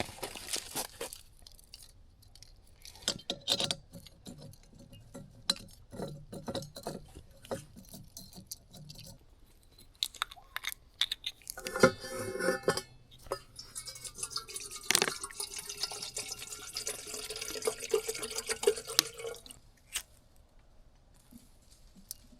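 Clicks and clinks of glass and cookware being handled, then water running for about five seconds, ending shortly before the end.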